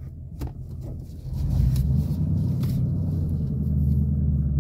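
Ford Mustang's 5.0-litre V8 engine heard from inside the cabin while driving. A low rumble grows sharply louder about a second in, then holds a steady note.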